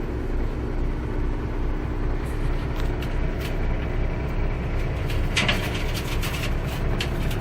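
International HX dump truck's diesel engine idling, heard from inside the cab as a steady low throb.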